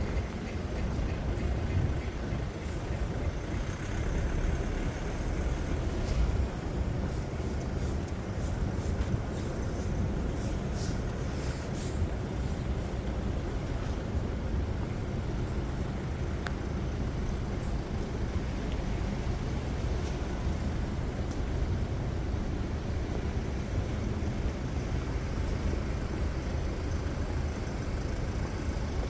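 City street traffic: a steady low rumble of cars and buses running past.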